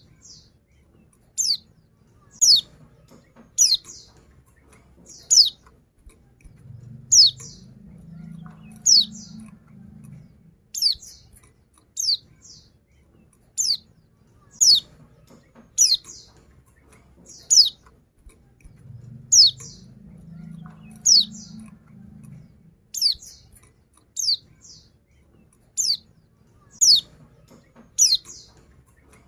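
Female white-eye (pleci) calling: short, high, falling notes, about one a second, some given in quick pairs. A faint low rumble rises and fades twice underneath.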